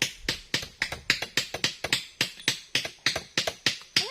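Nails being hammered into wood: quick, regular hammer blows, about four a second.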